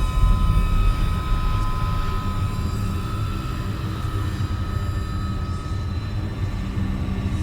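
Dark ambient horror drone: a deep, steady rumble with thin sustained high tones above it, the higher tones fading out about halfway through.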